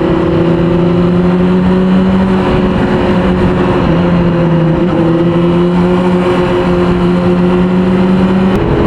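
600 cc sport bike's inline-four engine running at a steady cruise, under wind and road noise. The engine note wavers slightly and steps up near the end.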